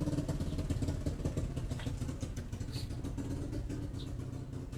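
A small engine idling steadily, its fast, even run of firing pulses easing off slightly toward the end.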